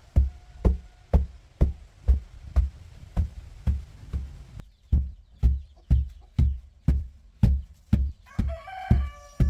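A steady thumping beat of background music, about two beats a second. Near the end a rooster crows once, in one long drawn-out call.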